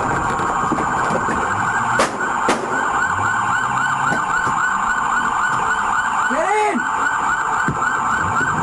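Police car siren in fast yelp mode, quick rising-and-falling sweeps repeating about four times a second. Two sharp clicks come about two seconds in.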